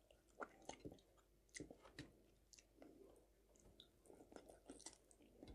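Faint chewing of roast chicken leg meat picked off the bone by hand: soft, irregular mouth smacks and clicks, mostly in the first two seconds, with a few more near the end.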